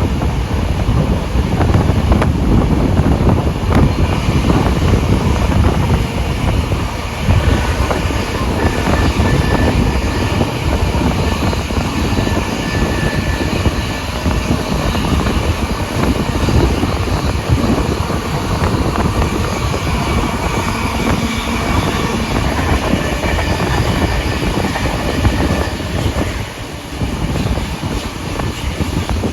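Steam-hauled passenger train running along the track, heard from on board: a steady, loud rumble of wheels on rail.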